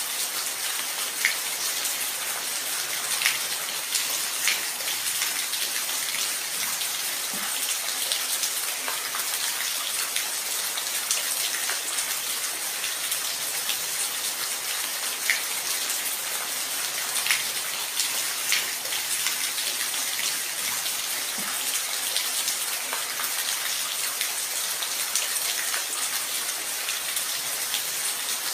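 Steady rain falling, an even hiss with scattered sharper drops striking a surface here and there.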